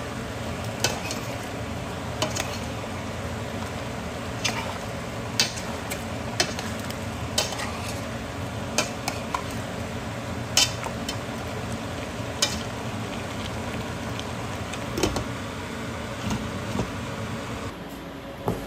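Food sizzling in a hot pot while being stirred, with a utensil clicking against the pot every second or so. The sizzle drops away near the end.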